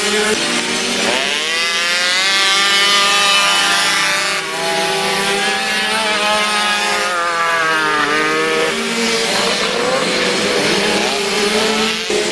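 Several Derbi Variant mopeds' small two-stroke engines revving, their pitch rising and falling as they accelerate and ease off, with more than one engine heard at once.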